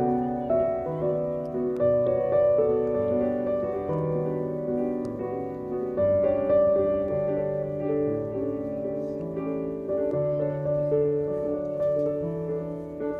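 Background piano music, a slow gentle melody over a bass line.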